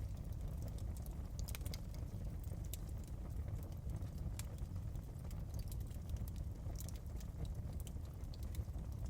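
Fireplace ambience: a wood fire crackling, with many small irregular pops over a steady low rumble.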